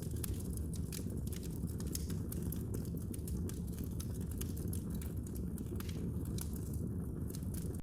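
Wood fire burning in a fireplace: steady low rumble of the flames with frequent irregular crackles and pops, several a second.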